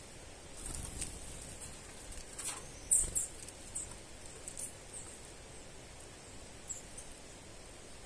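A few short, very high-pitched bird chirps, the loudest about three seconds in and one more near the end, over a soft rustle of leaves.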